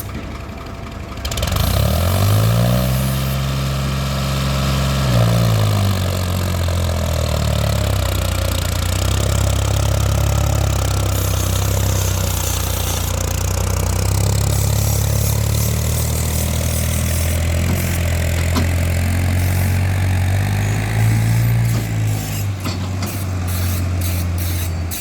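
New Holland 3630 tractor's three-cylinder diesel engine revving up about two seconds in, held high for a few seconds, then dropping back and running steadily, with another short rev near the end.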